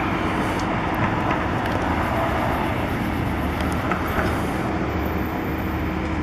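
Steady city traffic noise, a constant rumble with a low hum under it.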